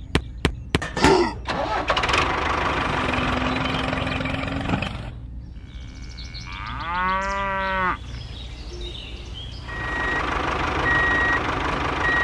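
A string of dubbed sound effects. A few sharp clicks, then a steady noisy running sound; a cow moos once, about seven seconds in; near the end a vehicle runs with a high reversing beep repeating about once a second.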